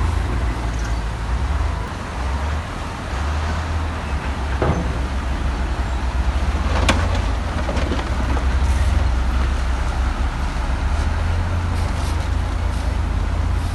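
Heavy diesel earthmoving machinery running steadily with a deep, low engine rumble, with a sharp metallic clank about seven seconds in.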